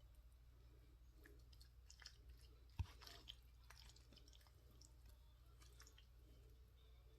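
Faint squishing and scraping of a serving utensil scooping chicken-and-pasta casserole out of the baking pan, with scattered small clicks and one sharper knock a little under three seconds in.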